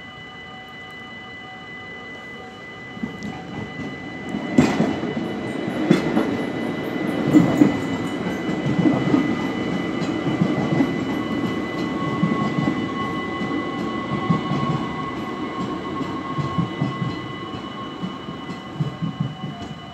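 A passenger train runs over a Dutch level crossing while the crossing's warning bells ring steadily. The train's noise builds from about three seconds in, with a sharp bang just after, then wheel clatter and rumble and a steady whine from about halfway. It ends in a few separate wheel clacks near the end.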